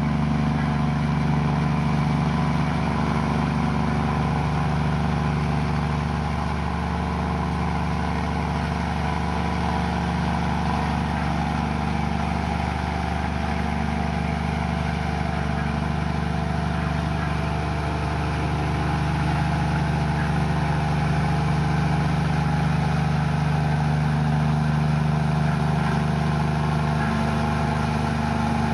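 Komatsu bulldozer's diesel engine running steadily, easing a little for a stretch and picking up again later.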